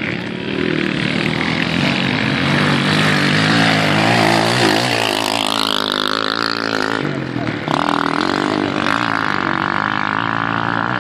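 Motorcycle engines running hard during a race, their pitch rising and falling as they rev and pass, with several engines overlapping.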